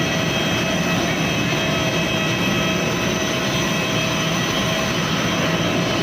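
Airbus A320 jet engines running at idle just after landing, heard from inside the cabin: a steady rumble and hiss with a thin, steady high whine over it.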